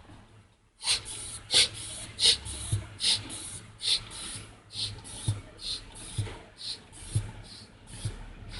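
Rhythmic scraping or rubbing strokes, short and hissy, about one and a half a second, starting just under a second in.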